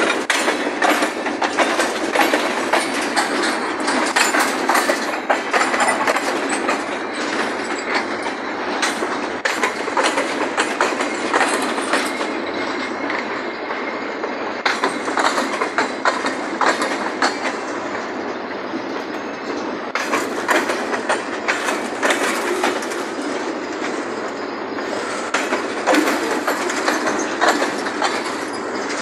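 Freight train of tank cars and boxcars rolling past, its steel wheels clicking over the rail joints in a steady, continuous run of wheel-on-rail noise.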